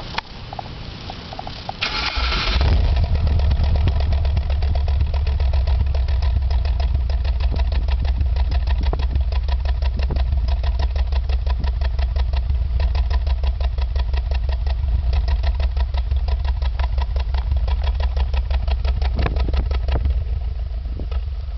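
Subaru Impreza GC8's flat-four boxer engine cranked and catching about two seconds in, then idling steadily with a rapid pulsing exhaust note, the exhaust sound the owner calls a misfire.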